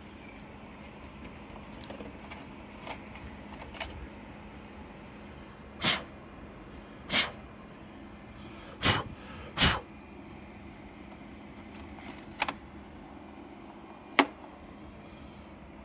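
A scatter of short, sharp clicks and knocks, a few faint ones and then six louder ones at uneven intervals, over a steady faint hum.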